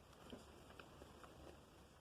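Near silence, with a few faint soft ticks from someone quietly eating crab.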